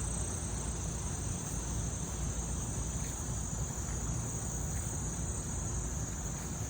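Steady high-pitched chorus of meadow insects, with a low rumble underneath.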